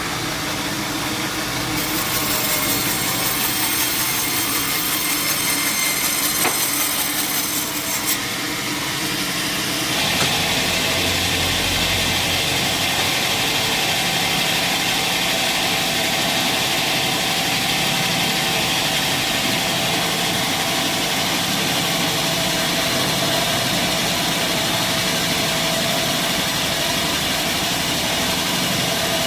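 Sawmill machinery running steadily: sawing through wood in the first several seconds, then about ten seconds in a change to an even machine hum like an engine running.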